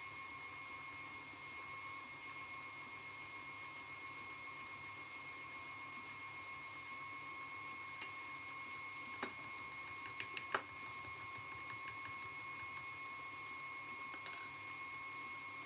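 A small electric motor running at a steady speed with a thin, high whine, and a few light clicks and knocks around the middle.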